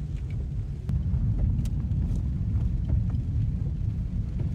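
Low, steady road and engine rumble inside a small car as it drives, getting a little louder about a second in, with a few faint clicks.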